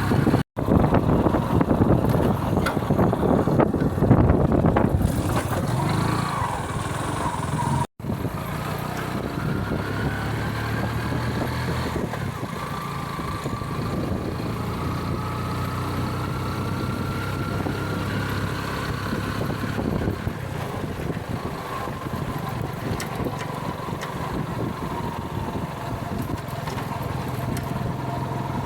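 Motorcycle engine running steadily on the move, with heavy rushing noise for the first several seconds. The sound drops out for an instant twice, near the start and about eight seconds in.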